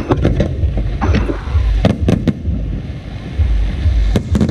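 Aerial fireworks shells bursting: a string of sharp bangs at uneven intervals, some in quick pairs, over a steady low rumble.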